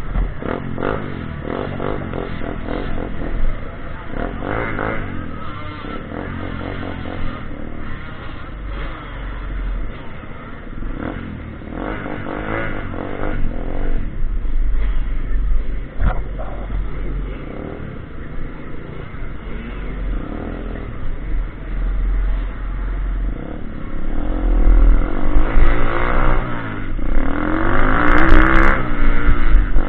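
Pitbike engine revving up and down as the bike is ridden, its pitch repeatedly rising and falling with the throttle, with a low rumble underneath; it gets louder over the last several seconds.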